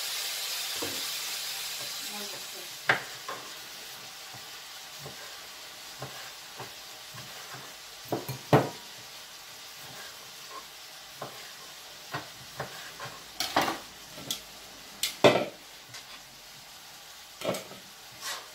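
Diced chicken frying in a pan, a steady sizzle that fades over the first few seconds. Then a knife cutting cherry tomatoes on a plastic cutting board: irregular sharp knocks and taps.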